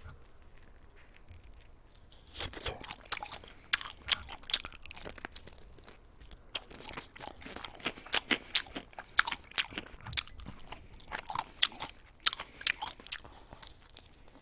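Close-miked chewing and biting into a piece of baked chicken: wet mouth sounds, then from about two seconds in a run of sharp, irregular crunches.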